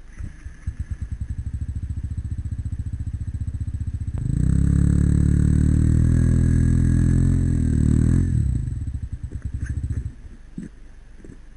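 Single-cylinder trail motorcycle engine catching and idling with an even thumping beat. About four seconds in it is revved and held for about four seconds, then it drops back to idle and cuts off about ten seconds in.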